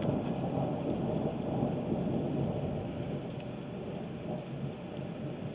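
Rolling thunder rumbling and slowly fading during a thunderstorm, with rain falling.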